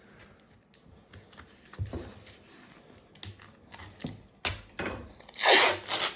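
Blue painter's tape being handled and pulled off the roll: light crackles and clicks, then one loud rip of tape about half a second long near the end.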